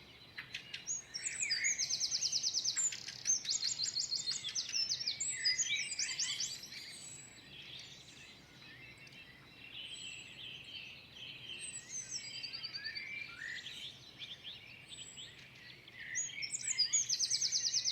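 Woodland songbirds singing: bursts of fast, high trills, loudest from about a second in to six seconds and again near the end, with thin high calls and chirps in the quieter stretch between.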